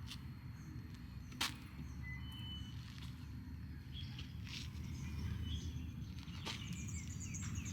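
Outdoor nature ambience: a steady low rumble with a few sharp clicks, and scattered short bird chirps. A rapid high trill starts near the end.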